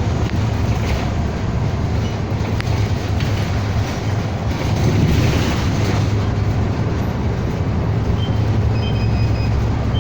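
Cabin noise inside a moving city bus: a steady low engine and road rumble with rattling from the body. A few faint short high tones come near the end.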